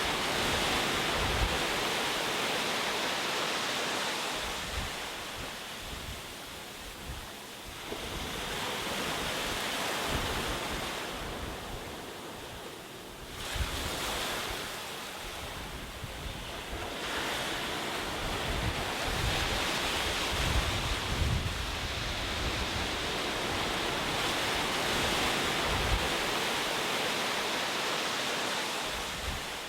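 Ocean waves breaking and washing ashore, the surf swelling and ebbing in slow surges, with a lull about halfway through before a new wave breaks.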